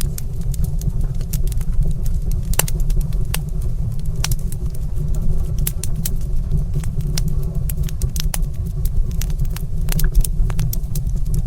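Wood fire in a stone fireplace crackling, with frequent sharp, irregular pops and snaps over a steady low rumble.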